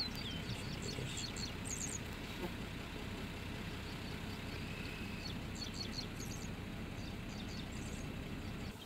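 Songbirds chirping in quick bursts of short high notes, with a few falling whistles at the start, over a steady low rumble that drops away near the end.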